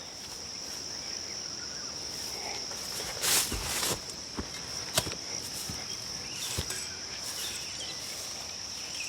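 Steady high-pitched drone of insects. A brief rustle about three seconds in and a couple of sharp knocks follow.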